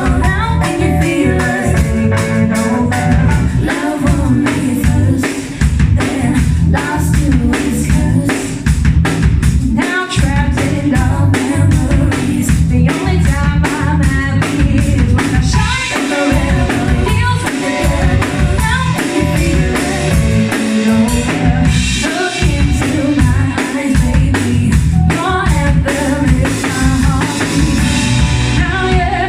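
Live band playing a song with a singer, the drum kit keeping a steady beat under the vocal.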